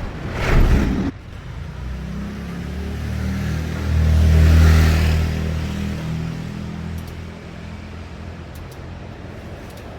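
A vehicle engine running, swelling to its loudest four to five seconds in and then easing back to a steady lower hum. A brief loud clattering noise comes in the first second.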